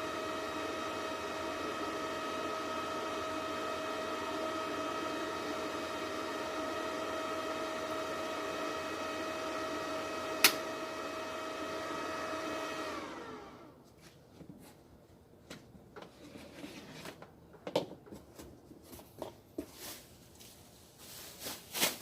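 A small electric motor runs with a steady whine, with a sharp click about ten seconds in. It then winds down, falling in pitch and stopping about two-thirds of the way through. Scattered light clicks and knocks of handling follow.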